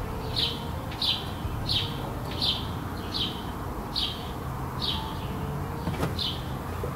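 A bird chirping over and over, short high notes evenly spaced about once every 0.7 seconds. A single click sounds near the end.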